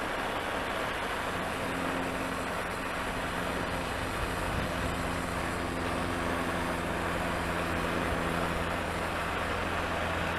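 Steady machine hum with a continuous hiss, unchanging in level throughout.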